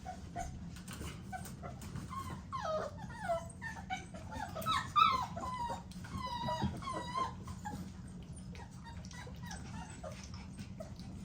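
American Bully XL puppies whimpering: a run of short, high-pitched whines and yips, thickest in the middle, over a faint steady hum.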